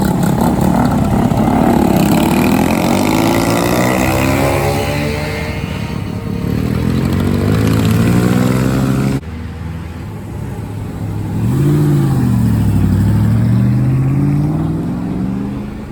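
Car engines passing at close range as vehicles drive away, their pitch gliding as they accelerate and go by. About nine seconds in the sound cuts abruptly to another engine that revs up, drops back and climbs again.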